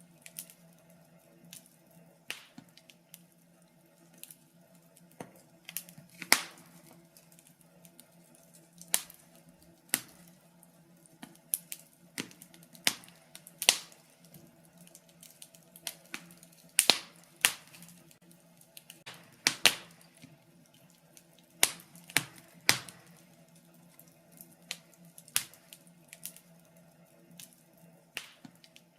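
Wood fire in a fireplace crackling and popping: irregular sharp snaps, some in quick pairs, over a faint steady hum.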